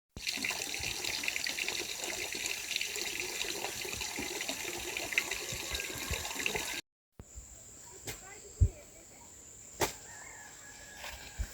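Steady hiss of running or falling water with fine ticks for about seven seconds. After a sudden cut, a quieter stretch follows, with a thin high whine and a few brief knocks.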